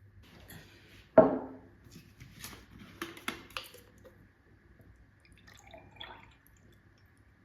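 Household objects being handled: one loud knock about a second in, then several light clicks and clinks, and a softer rustle near the end.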